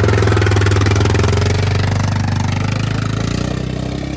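A loud engine running steadily with an even, rapid pulse. Its note shifts slightly about three seconds in and it then eases off a little.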